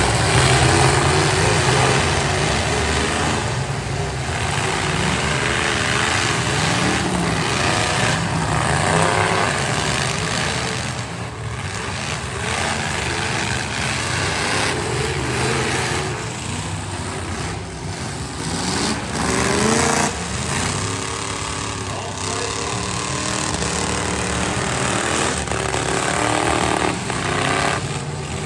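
Several demolition derby trucks' engines running and revving hard together, their pitches rising and falling over one another.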